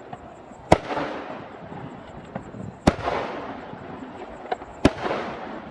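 Aerial firework shells bursting: three sharp, loud bangs about two seconds apart, each trailing off in a rolling echo and crackle, with a couple of fainter pops in between.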